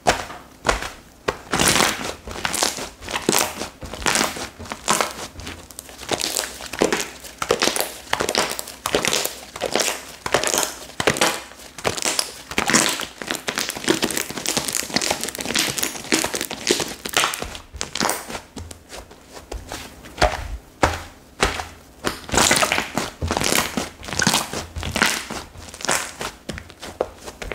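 Slime being squeezed, pressed and stretched by hand, making a continuous run of crinkly, crackly squishes and small pops, several a second.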